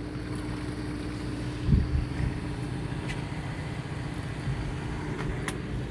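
Steady low hum of a fishing boat's motor running, with a steady tone over it; a brief low thump about two seconds in.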